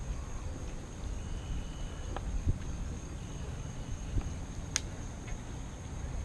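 Low, uneven rumble of wind and road noise from a bike ride. Over it runs a steady high insect drone, and a few sharp clicks sound in the middle, the loudest one near the end.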